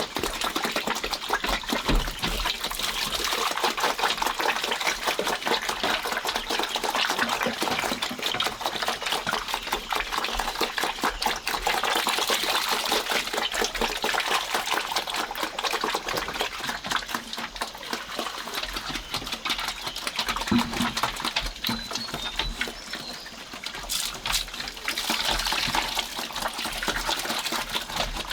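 Stream water running and splashing steadily.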